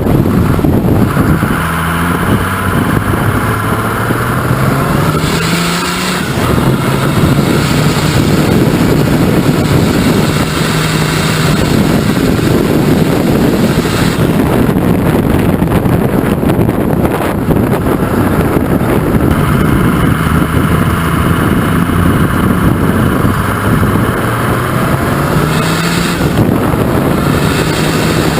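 Twin-turbo Mercedes OM603 straight-six diesel in a 1941 GMC CCKW 6x6 truck, driving under load. It revs up about two seconds in and again near the end, holding steady in between, with a high whine over the engine during much of the run.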